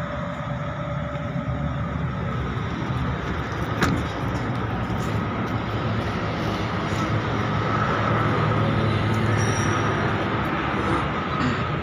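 Car engine idling, a steady low hum that grows a little louder near the rear of the car, with a single sharp click about four seconds in.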